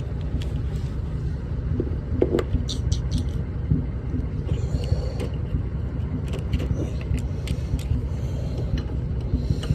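A steady low rumble throughout, with scattered clicks, knocks and a few brief metallic clinks of tools working at a lawn mower wheel.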